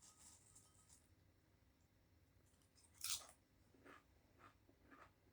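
Potato crisp crunched between the teeth: one sharp crunch about three seconds in, followed by a few faint chewing crunches.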